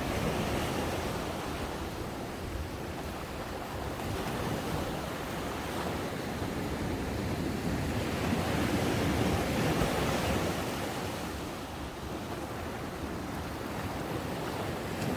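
Ocean waves breaking and washing up on a sandy beach, a continuous surf that swells and eases, fullest about two-thirds of the way through, with some wind on the microphone.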